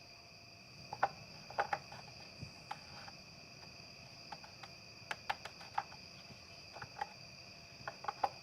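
Crickets chirping steadily in the background, with scattered light clicks and knocks as the plastic oil filler cap is handled, turned and screwed back on.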